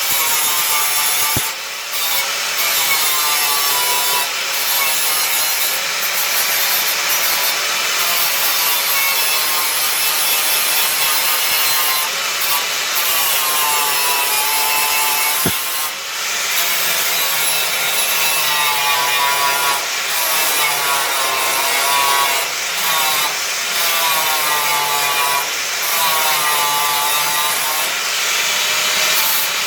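Electric angle grinder working on car body steel, cleaning and dressing the panel, its motor pitch dipping and recovering as it is pressed into the metal. It is lifted off briefly twice, once near the start and once about halfway through.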